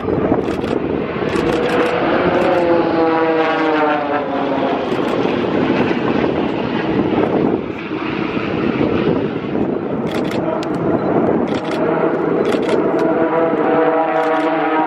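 Propeller-driven airplane flying past, its engine note gliding in pitch a couple of seconds in and building again near the end.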